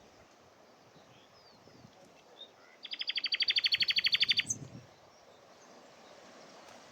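A common nightingale singing a rapid run of about twenty identical repeated notes that swells in loudness over about a second and a half, ending with one short higher note. Faint, scattered calls from other birds are heard around it.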